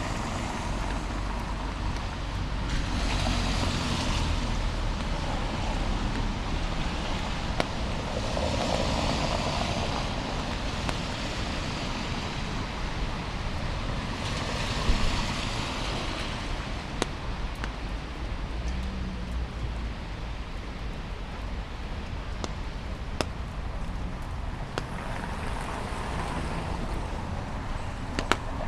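City street ambience in the rain: cars pass on wet asphalt four times, each a swelling tyre hiss that fades away, over a steady background wash.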